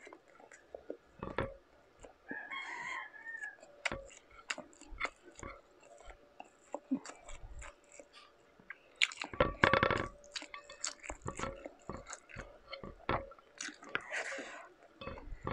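Close-up mouth sounds of eating rice and shrimp by hand: wet chewing, lip smacks and small clicks. About nine seconds in comes a louder, low, buzzing throat sound lasting about a second.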